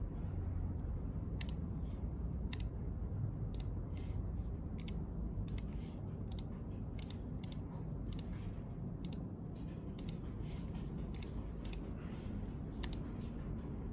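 Sharp, irregular light clicks, roughly one a second, over a steady low background rumble.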